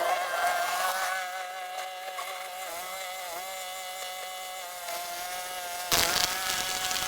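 Small petrol engine running steadily at high speed with a buzzing hum; a loud rushing noise breaks in near the end.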